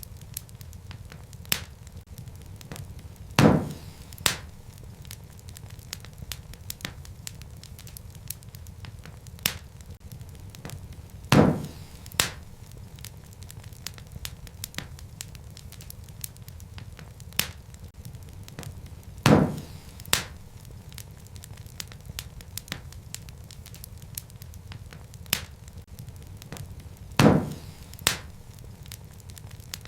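Wood fire crackling in a fireplace: a low steady rumble of burning with many small ticks and crackles. Loud sharp pops come about every eight seconds, each followed by a smaller pop a moment later.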